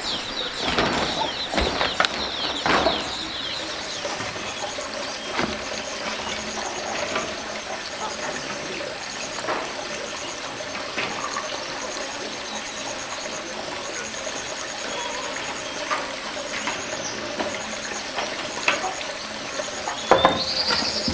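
Water trickling with birds chirping high and quickly, and scattered light knocks and scrapes, more of them in the first few seconds.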